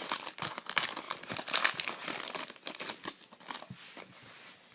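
Crinkling and rustling of a foil trading-card pack wrapper and cards being handled, quieter in the last second or so.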